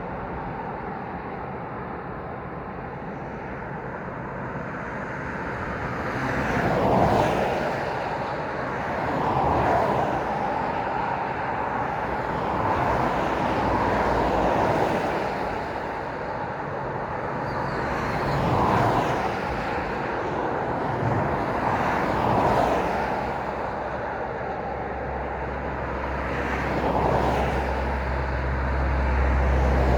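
Road traffic passing one vehicle at a time, about six pass-bys, each swelling and fading as its tyres and engine go by, over a steady background hum of the road. Near the end a deeper, low rumble builds.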